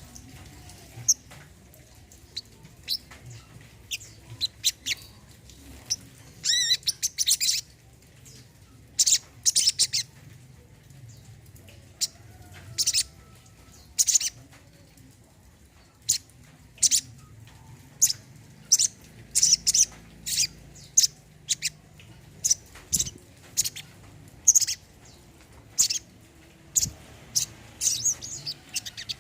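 Brown-throated sunbird (kolibri kelapa, sogon) singing: rapid, sharp high-pitched chirps and short trilled phrases in quick clusters, with brief pauses between them.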